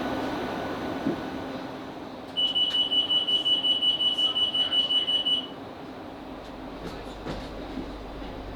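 Door-closing warning on a Class 458 electric train: a rapid high-pitched beeping for about three seconds over the steady hum of the standing train, followed by a low rumble that builds near the end.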